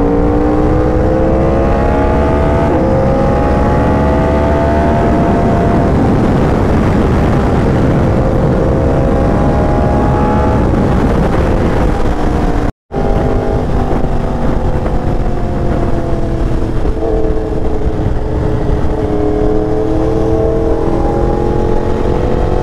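Motorcycle engine running hard at speed over heavy wind rumble. Its pitch climbs slowly and drops back a few times, and the sound cuts out for an instant about halfway.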